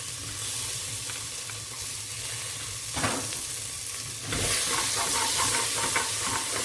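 Curry paste frying in sunflower oil with garlic and courgette in a pan, sizzling while it is stirred. There is a short scrape about three seconds in, and the sizzle gets louder and more crackly from just after four seconds, as the spices start to catch.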